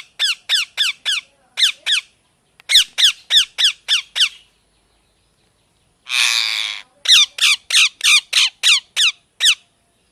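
Alexandrine parrot calling: runs of short, sharp squawks, each dropping in pitch, about four a second. About six seconds in, the runs break for one longer, harsher screech.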